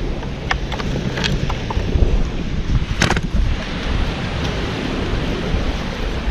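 Wind buffeting the microphone on an ocean beach, with the surf behind it, and a few short clicks or knocks, the loudest about three seconds in.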